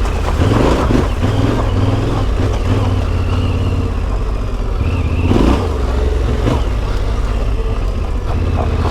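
Yamaha Ténéré 700's CP2 parallel-twin engine through an Akrapovič exhaust, running under way, with the throttle opened briefly about half a second in and again about five and a half seconds in.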